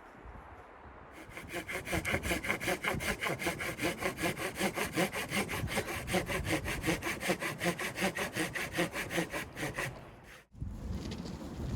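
Hand saw cutting through wood with fast, even back-and-forth strokes. It starts about a second in and stops shortly before the end.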